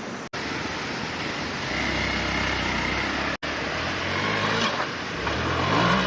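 Dirt bike engine running and revving, its pitch climbing near the end as the bike accelerates.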